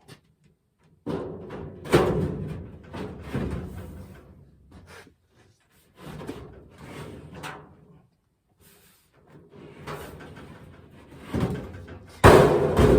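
Irregular knocks, bangs and clatter of hard objects being handled, coming in several clusters with the loudest near the end.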